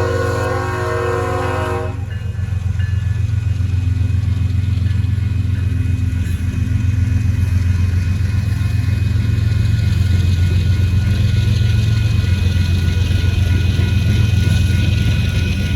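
Lead locomotive's multi-chime air horn sounding a chord that cuts off about two seconds in. Then the diesel locomotives rumble steadily past, with wheel and rail noise growing louder in the second half.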